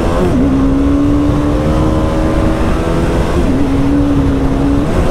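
TVS Apache RR 310's single-cylinder engine running steadily on the move under light throttle. Its note climbs slowly and dips briefly three times: about a third of a second in, just past the middle, and near the end.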